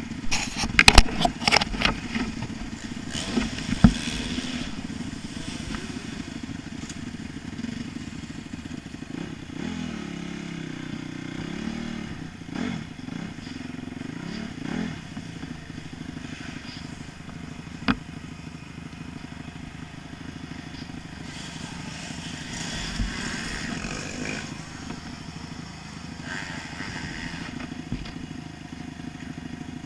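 Motocross bike engine running while riding off-road, its pitch rising and falling with throttle and gear changes. A few loud sharp knocks and rattles come in the first few seconds, and a single click comes just past halfway.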